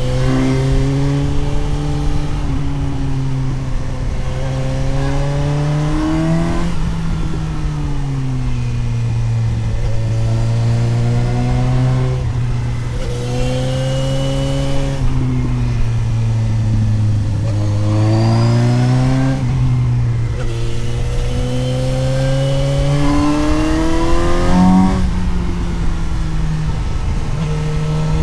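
Suzuki GSX-S750's inline-four engine heard onboard while riding, its pitch climbing under throttle and dropping back again several times through the gears and corners, over a steady low wind rumble.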